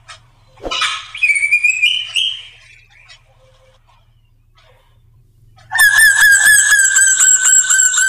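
Drongo (srigunting) singing: a loud call with a rising, wavering tone about a second in, then near the end a long fast run of repeated ringing notes, falling slightly in pitch.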